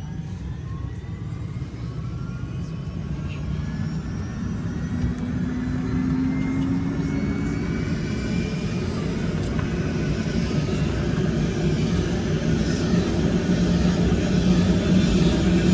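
Helicopter's turbine engine and rotor running up: a whine rising in pitch over a steady drone, growing steadily louder.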